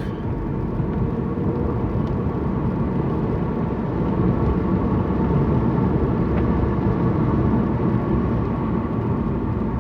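Car being driven, heard from inside the cabin: steady engine and road noise.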